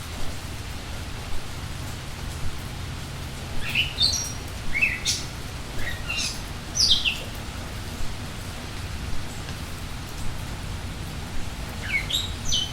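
Steady rain, with songbirds giving short, falling chirps in two bursts: a run of them a few seconds in and a few more near the end.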